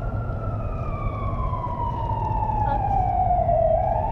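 Police siren in a slow wail: the tone falls over about three and a half seconds, then starts to rise again near the end. A steady low rumble runs underneath.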